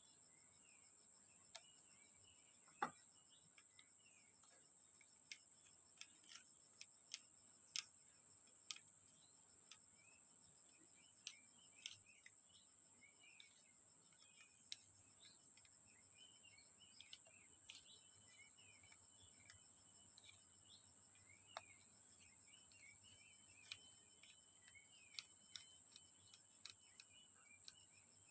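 Near silence: faint, scattered light clicks and ticks, one a little stronger about three seconds in, over a steady high-pitched whine and faint chirping.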